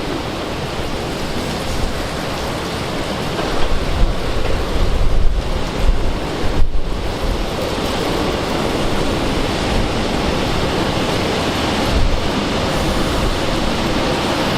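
Strong wind buffeting the microphone, a rough rushing noise that comes in heavy gusts, loudest from about four to seven seconds in.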